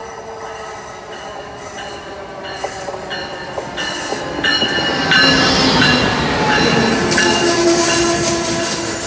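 Amtrak ACS-64 electric locomotive and its passenger cars rolling into the station along the platform, wheels squealing with thin high tones. The sound grows steadily and gets much louder about five seconds in as the locomotive passes close by.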